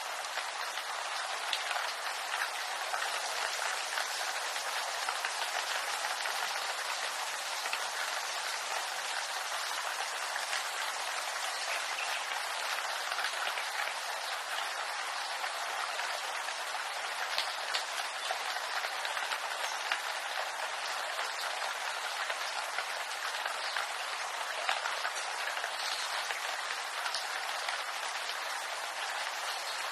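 Steady rain falling on bamboo leaves: a dense, even hiss of countless small drop ticks that keeps up without change.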